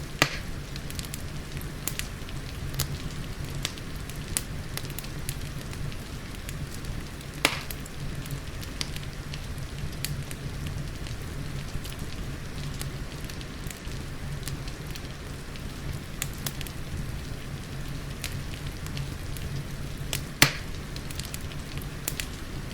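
Fireplace crackling with many small pops and three louder pops: one right at the start, one about a third of the way in, and one near the end. Underneath runs steady rain hiss and a low rumble.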